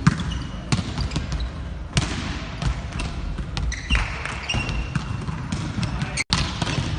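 Volleyballs being struck and bouncing on a hall floor during team practice: sharp smacks at irregular intervals over the hall's background noise. The sound cuts out for an instant near the end.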